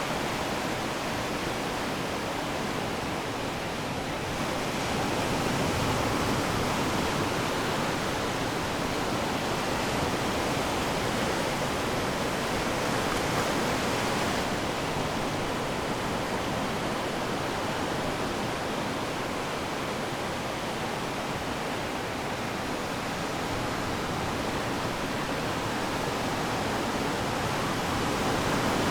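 Ocean waves breaking and washing on the shore: a continuous rush of surf that swells a little in loudness several times.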